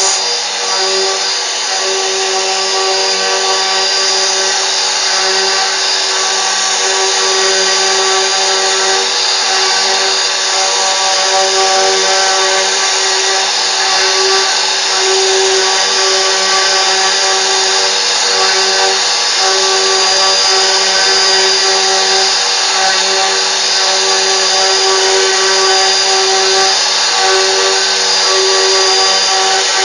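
CNC router spindle motor running at a steady speed, a continuous high whine with a rushing hiss.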